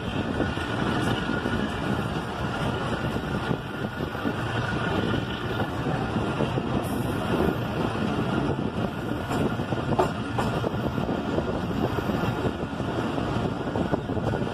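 Passenger train running steadily, a dense rumble of wheels on track mixed with wind buffeting from the open coach window; two sharp clicks about ten seconds in.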